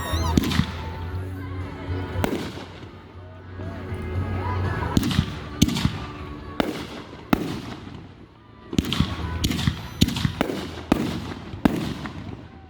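Aerial fireworks going off: about fifteen sharp bangs of bursting shells, some in quick clusters of two or three, with the busiest run in the second half.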